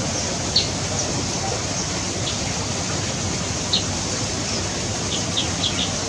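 Short, high bird chirps in an aviary: single notes about half a second, two seconds and nearly four seconds in, then a quick run of three or four near the end, over a steady hiss of background noise.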